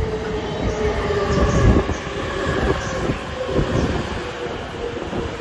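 E257 series electric limited-express train running slowly into a station: a whine from its traction motors falls gently in pitch as it brakes, over a low rumble of wheels on rail with heavier low surges about a second and a half in.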